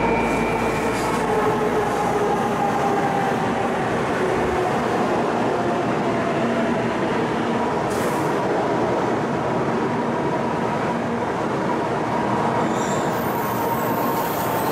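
Kyushu Shinkansen bullet train running past on an elevated viaduct: a steady rush and rumble of wheels on rail and air, with a faint whine underneath.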